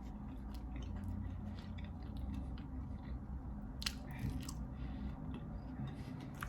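A person chewing and biting food, wet mouth sounds with irregular short clicks over a steady low hum, the sharpest click about four seconds in.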